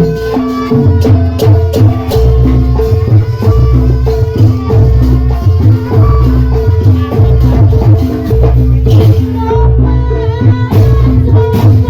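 Javanese jaranan gamelan music: drums keep a fast, repeating low beat under a steady held note, with a high melody line that bends in pitch above.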